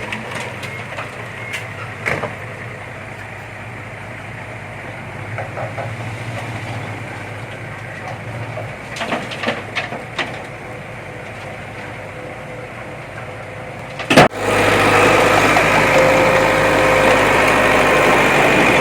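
Earthmoving machinery engines running steadily, with a few metal clanks. About fourteen seconds in, a sharp knock, and then the engine sound is abruptly louder with a steady whine.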